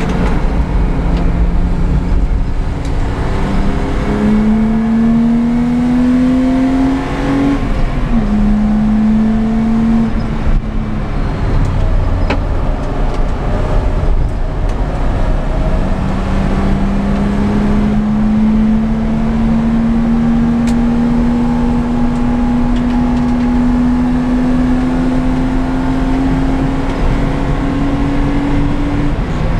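BMW E30 325i's 2.5-litre straight-six heard from inside the cabin under hard acceleration on a race track, its pitch climbing through the gears. The pitch drops sharply with an upshift about 7.5 seconds in and again near the end, after a long slow climb, over constant road and wind noise.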